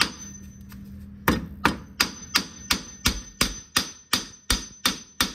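Hammer blows at a steady pace of about three a second, starting about a second in, struck through a cushioning piece to knock a car's front shock absorber strut loose from the steering knuckle.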